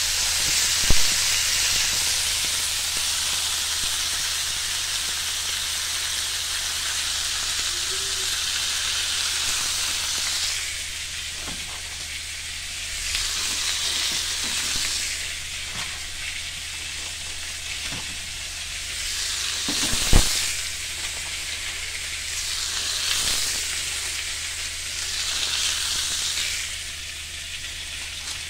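Meat-stuffed pitas frying in a stovetop grill pan. A steady sizzle for the first ten seconds, then the sizzle swells and fades in waves as they are turned with metal tongs. There are two sharp clacks, about a second in and near twenty seconds.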